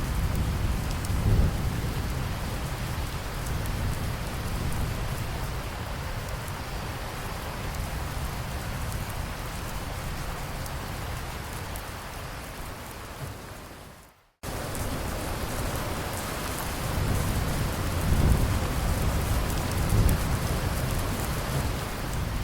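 Steady heavy rain with low rumbles of thunder in the first couple of seconds and again near the end. About fourteen seconds in, the rain fades to a moment of silence and then cuts back in abruptly, a join in a looped recording.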